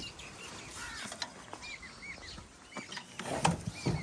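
Birds chirping in short, repeated arched calls, with a few sharp mechanical knocks; the loudest knock comes near the end.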